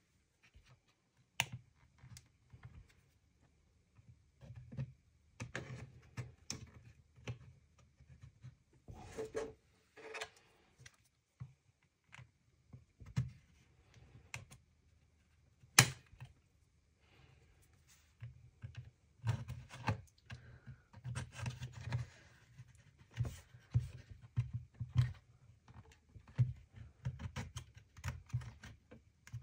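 Irregular clicks, taps and light scraping from handling a small plastic device and hand tools on a work surface, with two sharp snaps, one about a second and a half in and one about sixteen seconds in.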